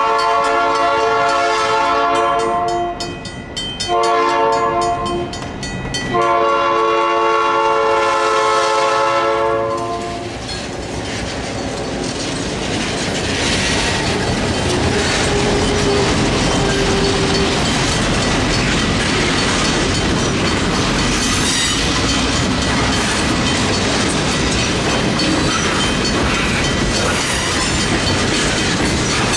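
A diesel locomotive's horn blows: the tail of one blast, a short blast about four seconds in, then a long blast that ends about ten seconds in. A mechanical railroad crossing bell rings steadily throughout. After the horn, two diesel locomotives and a string of tank cars roll through the crossing, with engine rumble and wheels clicking over the rail joints.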